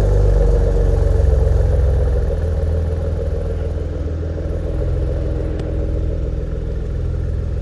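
2018 Porsche Macan GTS twin-turbo V6 idling on a cold start through a full Techart exhaust, with a steady low exhaust note. The sound eases down gradually from about two seconds in.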